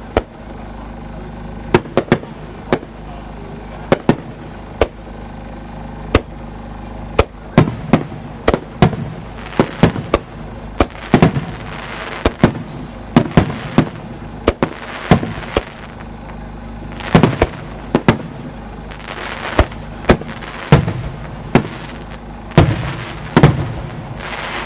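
Aerial fireworks shells bursting one after another as sharp bangs, some trailing a rolling rumble. The bangs are spaced out at first, then come thick and fast from about seven seconds in.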